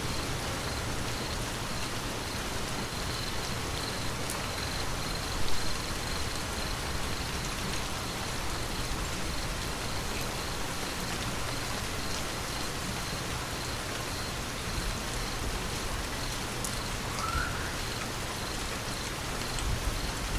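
Steady rain falling and pattering on surfaces, an even hiss with one brief louder moment about five seconds in.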